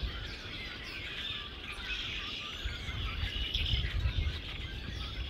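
Small birds chirping and twittering, many short calls overlapping, over a low rumble.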